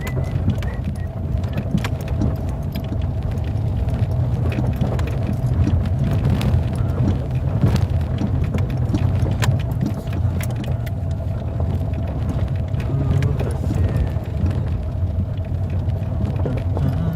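Motor vehicle driving: a steady low engine and road rumble with a faint steady hum, and scattered short clicks and knocks throughout.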